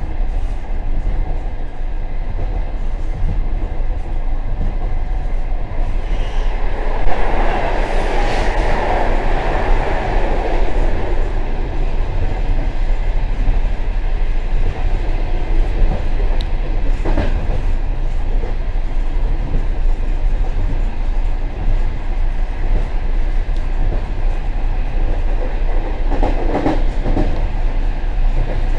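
Passenger train running over the rails, heard from inside the rear vestibule of the last car: a steady rumble and rattle of the wheels and carriage, with a few sharp clacks over rail joints. The rumble swells louder for a few seconds about seven seconds in.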